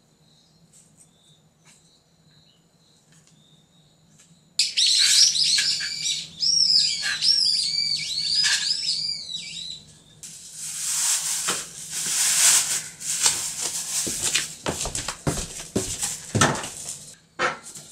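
A bird calling in a quick run of high, arching notes, starting about four and a half seconds in and lasting some five seconds, followed by a loud rushing, crackling noise that stops just before the end.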